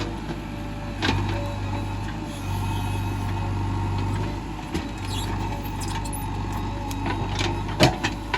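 Diesel engine of a JCB 3DX backhoe loader running steadily, with a few sharp knocks near the end.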